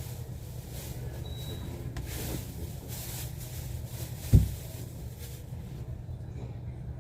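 Steady low rumble of a moving train heard from inside the carriage, with one sharp thump about four and a half seconds in.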